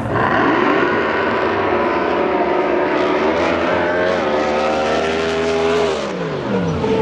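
Racing drag boat engine at full throttle on a pass, its pitch climbing steadily, then dropping steeply about six seconds in.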